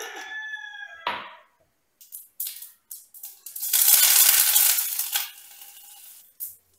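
A rooster crowing, its call ending about a second in, followed by a sharp knock. Then comes a loud hiss lasting about a second and a half.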